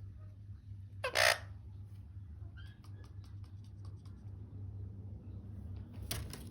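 Indian ringneck parakeet giving a harsh squawk about a second in and a shorter one near the end, with a few small clicks between, over a steady low hum.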